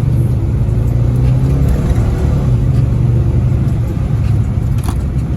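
A car engine running steadily with a low-pitched note, easing off a little near the end.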